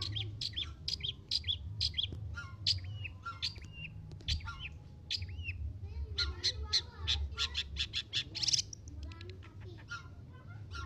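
Long-tailed shrike singing: a long run of short, sharp chirps and calls, about two to three a second, which quickens into a rapid burst of notes about two-thirds of the way through.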